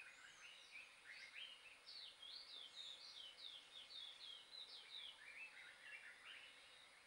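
Faint birdsong: a quick string of short, sliding whistled notes, with a lower run of notes near the end.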